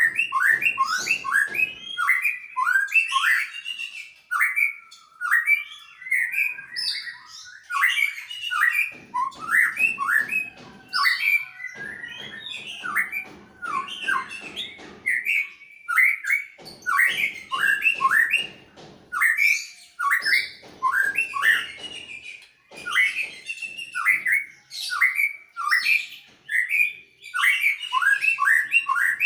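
Greater green leafbird and white-rumped shama singing back and forth: a dense, unbroken run of fast chirps and whistled phrases.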